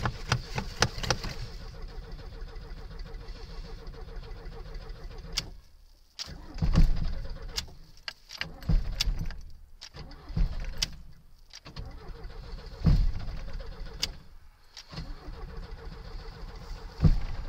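Cold start of a carburetted Lada in hard frost, on choke: the starter cranks steadily for about five seconds and then stops. The engine then coughs and fires unevenly in loud bursts every second or two, struggling to catch.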